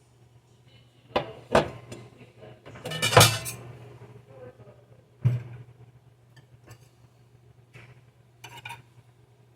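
Dishes and utensils knocking and clattering as food is dished onto plates: two knocks about a second in, a louder clatter around three seconds, a sharp knock just past five seconds and a couple of lighter ones near the end, over a steady low hum.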